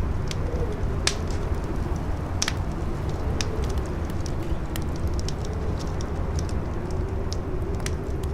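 Campfire crackling with sharp, irregular pops over a steady low rush of strong wind, which carries a wavering, howling whistle.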